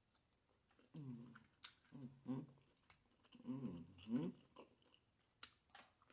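Close-up mouth sounds of eating steamed shrimp: wet chewing and lip smacks, with short closed-mouth "mmm" hums about a second in, two seconds in, and a longer one around three and a half to four seconds in.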